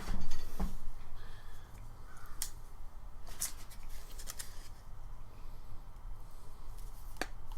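A few sharp clicks and light rustling from small objects being handled at a workbench, over a steady low hum.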